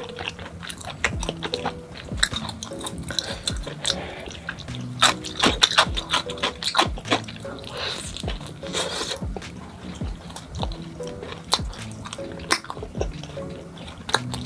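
Close-miked biting and chewing of a cheese-crust pizza crust: irregular crisp crunches and mouth sounds, busiest about a third of the way in and again past the middle. Soft background music plays underneath.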